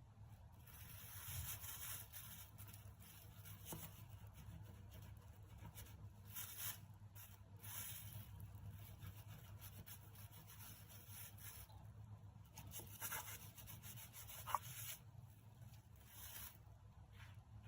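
Quiet rustling and rubbing of things being handled, in several short stretches over a faint steady low hum, with one light tap near the end.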